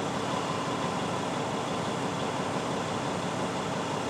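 Steady hum inside a parked vehicle's cab, from the engine idling and the climate fan running.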